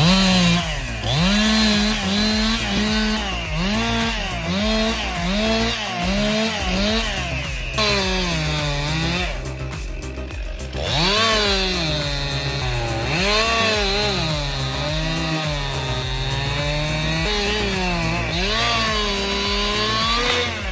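Small engine running at high revs, its pitch dropping and recovering over and over, about once a second, as if repeatedly bogging under load and picking back up, with a longer steady stretch about halfway through.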